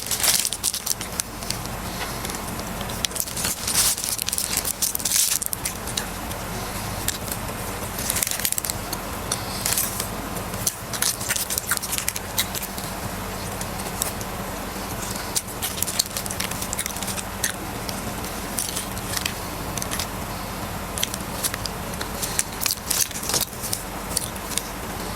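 Close-up eating sounds of a fried-chicken burger: irregular crisp crunches and crackles of the breaded chicken being bitten and chewed. A steady low hum runs underneath.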